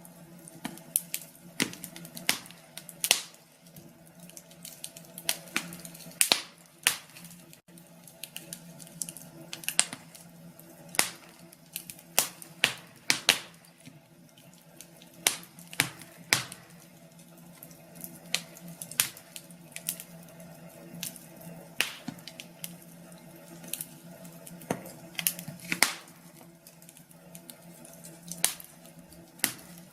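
Wood fire crackling in a fireplace: irregular sharp pops and snaps, several a second, some much louder than others, over a faint steady low hum.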